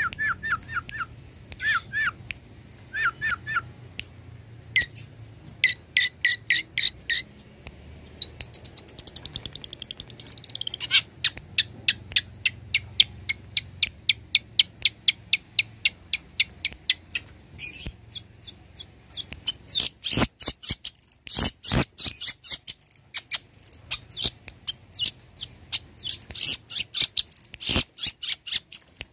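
Long-tailed shrike (cendet) singing a varied, fast song. It starts with short whistled notes, then fast rattling trains of sharp, clicking notes, and then loud harsh, scratchy calls that are loudest in the second half.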